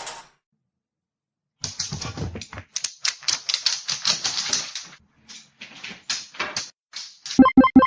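Rapid clattering clicks in irregular runs, like typewriter or keyboard keys being struck. Near the end comes a quick, even series of short pitched pulses.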